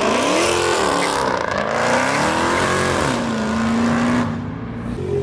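Car engine revving hard as the car pulls away under acceleration, its pitch climbing and falling twice, then holding steady for about a second before it fades near the end.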